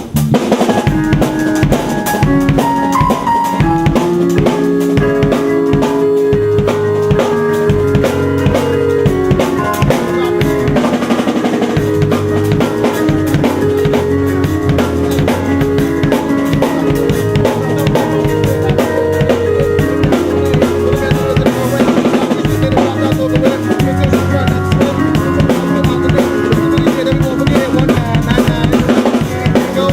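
Live band jamming, with the drum kit prominent: kick, snare and rimshot hits drive a steady beat under sustained bass and other pitched instrument lines. It kicks in sharply at the start.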